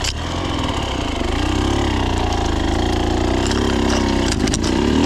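Dirt bike engine running at low revs, its pitch rising and falling gently as the bike is ridden slowly through brush, with a few brief clicks.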